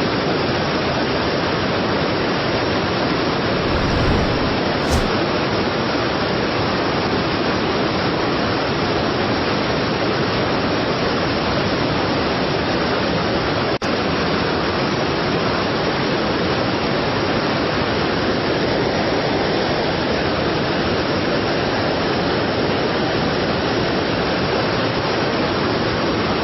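A strong waterfall: a steady, even rush of falling water that dips for an instant about halfway through.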